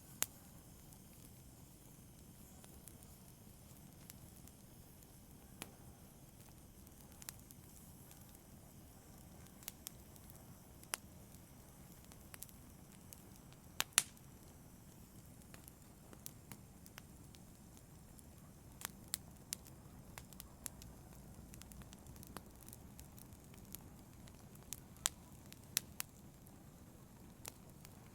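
Wood fire crackling in a fireplace: scattered sharp pops and snaps over a soft, steady low rumble of burning, the pops coming more often in the second half.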